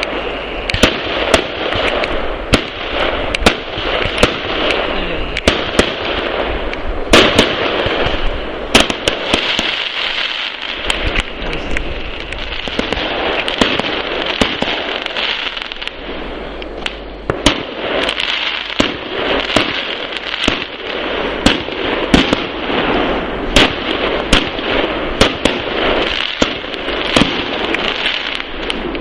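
New Year fireworks going off: a continuous crackle with frequent sharp bangs and pops at irregular intervals.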